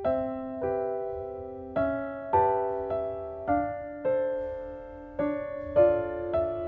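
Soft background piano music: gentle chords and single notes struck about once a second, each ringing and fading.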